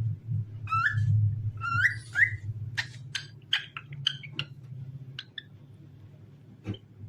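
Pet cockatiel whistling: two rising whistled notes in the first couple of seconds, then a quick run of short chirps that thins out after about five seconds. A steady low hum runs underneath.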